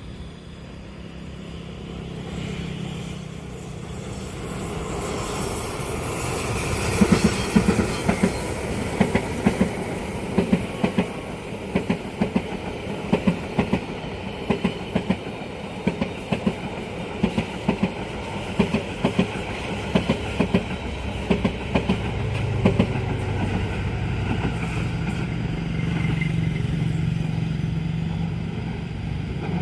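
Train passing at speed, its wheels clacking over the rail joints in regular pairs of beats for about fifteen seconds. The sound builds up as it approaches and gives way to a steady low engine hum near the end.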